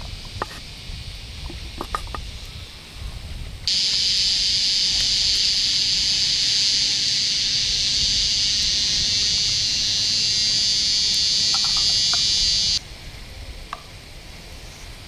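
Insects calling: a steady high buzz that turns much louder suddenly about four seconds in and drops back just as suddenly near the end, over a few light clicks at the start.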